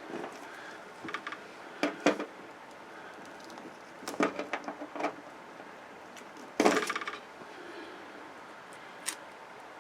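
Scattered light metallic clinks and clicks of hand tools and small metal parts being handled while a flat-screen TV is taken apart, with a longer clattering rattle about seven seconds in.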